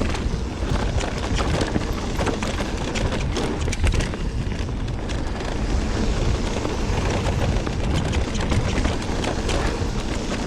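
Mountain bike riding down a rough dirt trail: a steady rumble of tyres over dirt and rocks and wind on the microphone, with many short sharp knocks and rattles from the bike.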